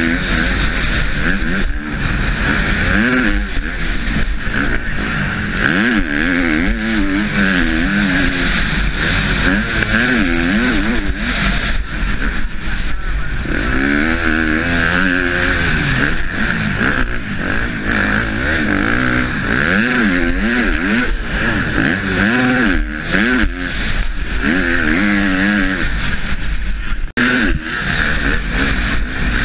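Husqvarna motocross bike's engine revving hard and dropping off again and again as it is raced round a track, heard from the rider's helmet with a constant rush of wind over the microphone. The engine note cuts out briefly about two seconds before the end.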